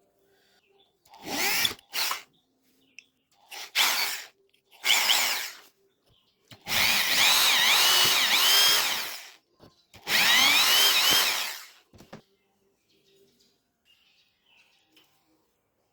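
Small electric power drill run in a series of bursts, two of them long, its high motor whine wavering in pitch as it bites into the work.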